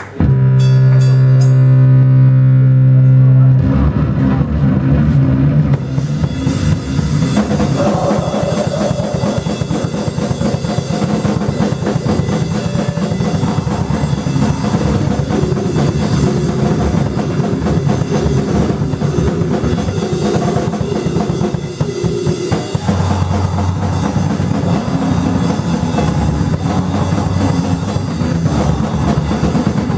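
Loud live band music: a held low bass note drones for the first few seconds, then the drum kit comes in with bass drum, snare and cymbals under the full band, about three and a half seconds in.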